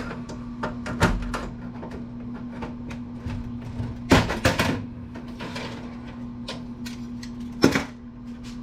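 Computer parts being handled and pulled apart by hand during a teardown: scattered clicks and knocks of metal and plastic, with louder clatters about a second in, around four seconds and near the end, over a steady low hum.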